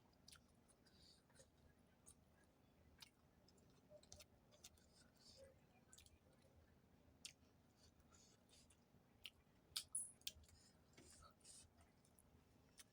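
Faint eating sounds close to the microphone: irregular mouth clicks and wet smacks of chewing. A few sharper clicks are the loudest, a little under ten seconds in.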